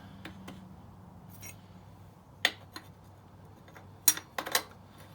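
A few sharp metallic clicks and clinks of parts and tools being handled on the motorcycle's rear wheel assembly, over a faint low hum. There is one click about halfway through, then a quick run of three near the end.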